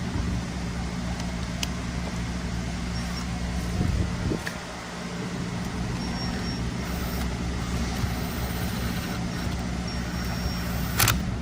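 Steady low machine hum from workshop equipment, with a few light clicks, one of them sharper near the end.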